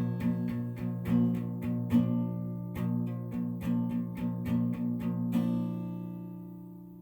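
Acoustic guitar music: a run of plucked and strummed chords, then a final chord that rings out and fades away from about five seconds in.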